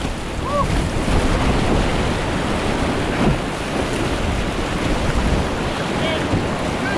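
Steady rushing of river whitewater rapids around a kayak, with a couple of brief faint calls about half a second in and near the end.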